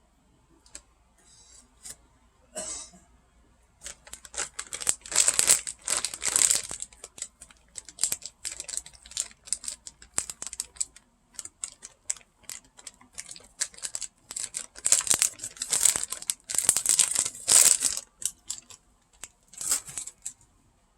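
Plastic food packaging crinkling and rustling in repeated crackly bursts, being handled.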